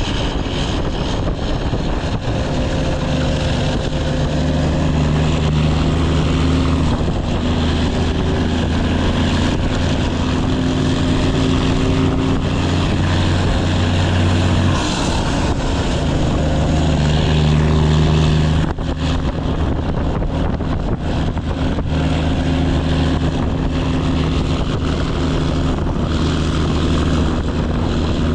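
Straight-piped Cummins ISX inline-six diesel in a Kenworth W900 pulling under load with a loud, steady exhaust drone. The note changes about 15 seconds in, dips sharply for a moment near 19 seconds, then pulls on again.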